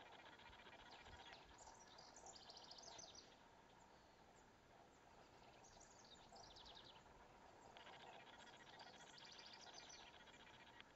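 Faint wild birdsong: short, rapid trilled calls about two seconds in, again around six seconds, and several near the end. A long, fast buzzy trill starts near eight seconds, all over a steady faint hiss.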